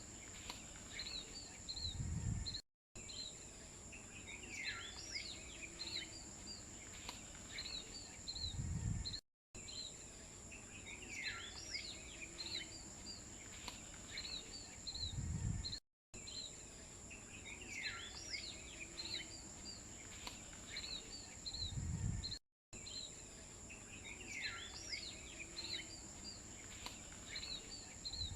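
Birds chirping over a steady high-pitched insect drone, a short nature-ambience recording looped about every six and a half seconds. Each repeat ends with a dull low thump and a split-second gap in the sound.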